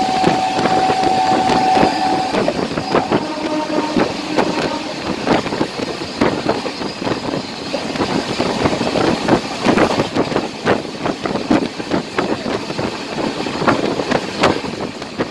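Passenger express train running at speed, heard from an open coach window: a rapid, irregular clatter of wheels over rail joints and points, over a steady rush of running noise and wind. A steady high tone sounds for about the first two seconds.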